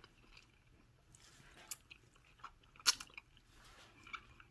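A person chewing and biting roasted chicken close to the microphone: a few short, sharp mouth clicks, the loudest about three seconds in.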